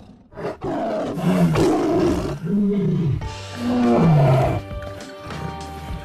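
A lion roaring in a few loud, low calls that rise and fall in pitch. Music with steady held tones comes in about halfway and carries on after the calls stop.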